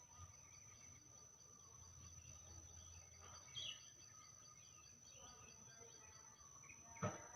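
Faint rural ambience: scattered bird chirps over a steady high insect hum. A short knock comes near the end.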